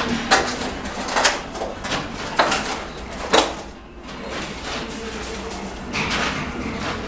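Steel mason's trowel scraping and working cement mortar, with a strong stroke about every second at first, then softer continuous scraping.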